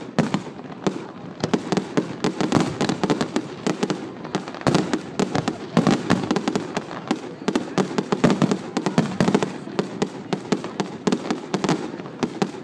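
Aerial fireworks going off in a rapid, unbroken barrage of bangs and crackles, many reports each second.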